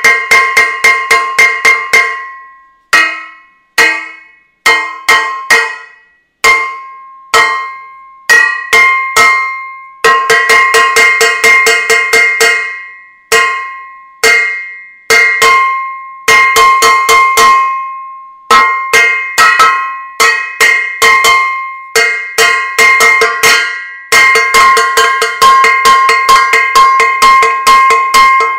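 A metal saucepan being beaten over and over, each strike giving a bright ringing clang. Fast runs of blows alternate with slower single hits that are left to ring and die away.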